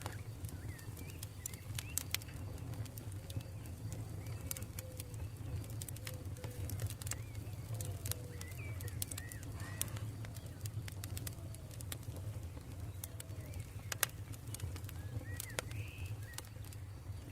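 Campfire crackling, with irregular sharp pops and a steady low rumble of the burning wood. Birds call in the background, with short gliding notes and a run of low curved notes through the middle.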